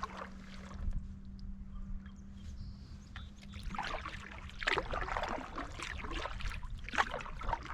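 Canoe paddle strokes through calm lake water: the blade swishes and splashes, with water dripping off it. The strokes come in the second half.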